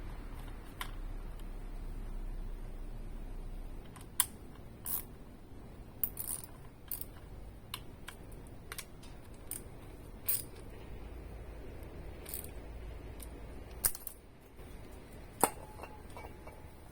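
Scattered light clicks and taps at uneven intervals, small tools and parts being handled while working on the motorcycle, over a faint low hum that stops about four seconds in.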